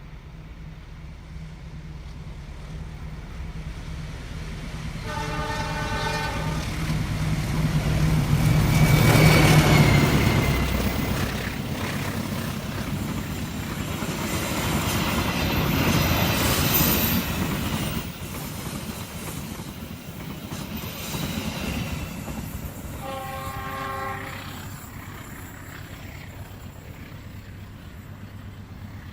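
Long diesel-hauled passenger train passing at speed: the locomotive's engine rumble builds to its loudest about ten seconds in, then the carriages' wheels rattle by and fade away. Its horn sounds twice, a blast of about a second and a half about five seconds in and a shorter one near the end.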